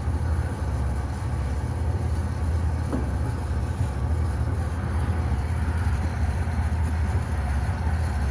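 2005 Pontiac Aztek AWD's 3.4-litre V6 running in gear with a steady low rumble that pulses rapidly, from an AWD drivetrain that keeps knocking and will not re-engage. The owner takes this for a blown rear gearbox.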